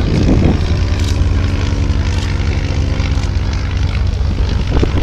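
Ryan Navion light aircraft's piston engine and propeller droning steadily at power just after takeoff. The engine tone is clearest in the middle seconds, over a low rumble.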